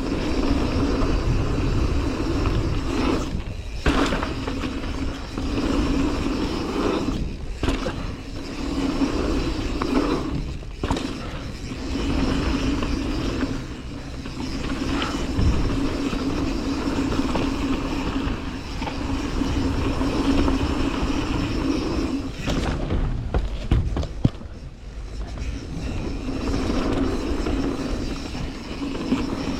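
Mountain bike descending a rough trail: a steady rumble of tyres over dirt and rocks, broken by many sharp knocks and rattles from the bike over bumps.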